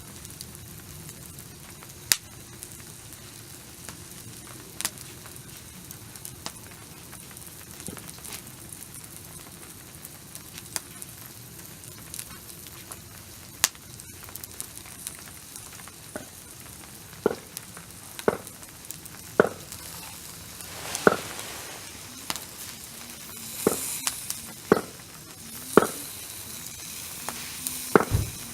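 Food sizzling on a barbecue grill, a steady hiss with scattered sharp pops. From about halfway through there is a run of louder short clicks and knocks, roughly one a second.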